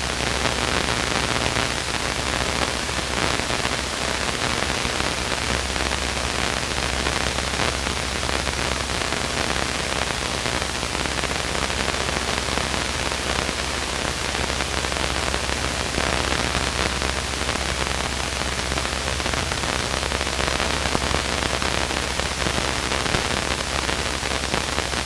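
Steady hiss of a Luscombe light aircraft's cabin noise in flight, engine and airflow, with a faint low engine drone underneath.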